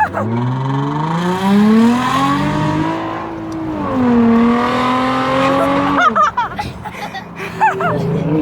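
A car engine revved through its exhaust. The pitch climbs for about three seconds and holds, dips slightly and holds again, then drops off about six seconds in. Voices follow near the end.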